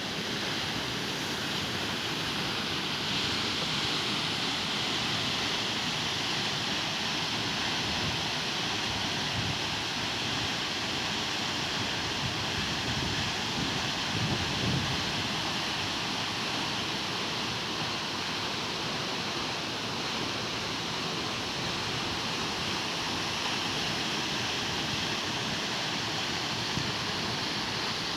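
Waterfall rushing steadily, an even hiss of falling water, with a brief low rumble swelling about halfway through.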